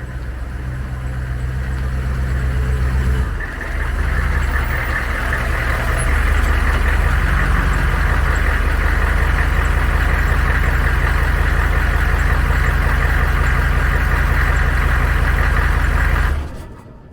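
Humvee's diesel engine running steadily, its sound shifting about three seconds in, then cutting off abruptly near the end.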